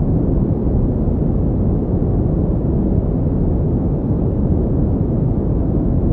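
Steady generated pink noise: a constant, unchanging hiss weighted toward the low end, giving a deep, rushing sound.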